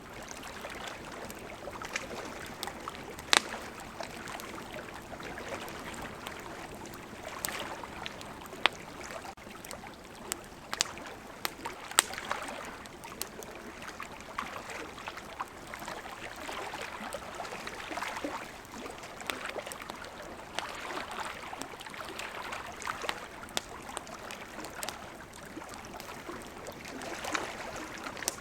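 Wood campfire crackling, with irregular sharp pops, over the steady rush of flowing river water.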